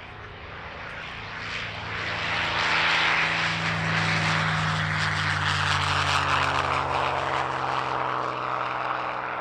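P-51D Mustang's Packard Merlin V-12 engine and propeller during a display flypast. It grows louder over the first three seconds, then holds steady.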